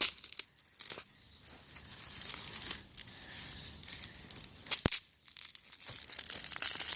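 Dried stinging nettles being crumbled and broken into small pieces by hand: dry crinkling and rustling, with a sharp snap about five seconds in.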